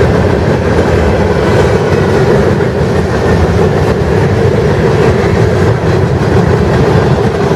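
Train passing close by: a loud, steady rumble and rattle of wheels on the rails, with no horn.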